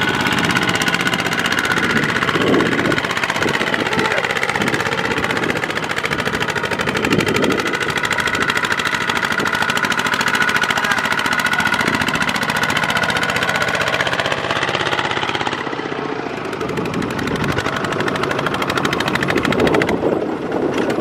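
Single-cylinder Kubota diesel engines of two-wheel walking tractors running, a steady rapid even beat.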